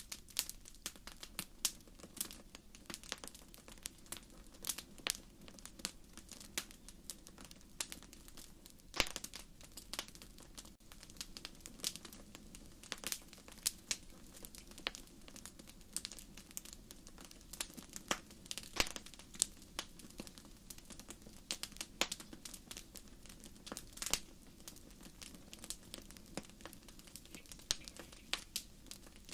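Wood fire crackling in a fireplace: irregular sharp pops and snaps of burning logs over a soft low rumble of flame.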